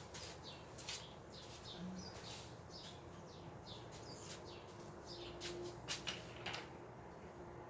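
Small birds chirping over and over in short, quick falling calls, with a few light clicks among them. The chirping stops near the end.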